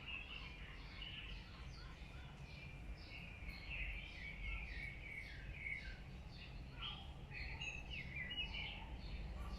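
Birds chirping: many short chirps overlapping in quick succession, over a low steady rumble.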